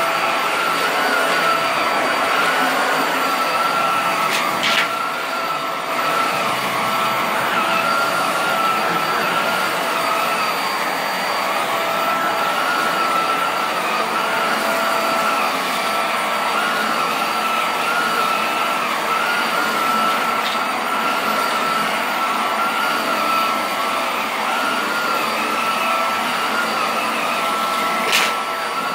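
Vacuum cleaner running steadily with a high, slightly wavering motor whine, with two brief clicks, one about five seconds in and one near the end.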